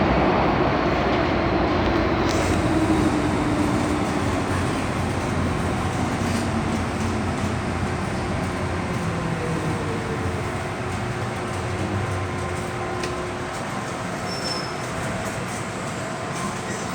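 MTR M-train electric multiple unit running on the track, a steady rumble with a faint motor whine that falls in pitch while the noise gradually fades as the train slows.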